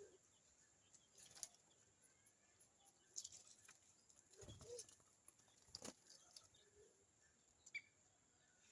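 Faint, scattered taps, flutters and soft thumps of birds at a fruit-and-seed feeding tray, with a brief faint chirp near the end.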